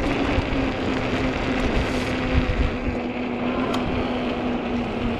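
Hub motor of an Ecotric 20-inch folding fat-tire e-bike humming steadily under power, its pitch sagging slowly, with wind buffeting the microphone.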